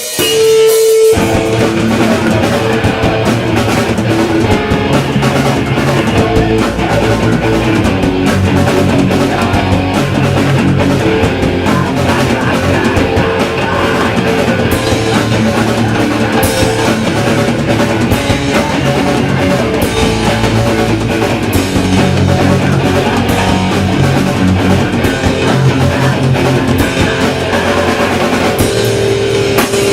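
Live hardcore punk band playing at full volume: distorted electric guitars, bass and a drum kit kicking into a song about a second in.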